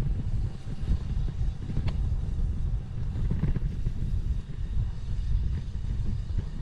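Wind buffeting the microphone of a bike-mounted 360 camera while riding: a low, uneven rumble, with a few faint clicks from the bike.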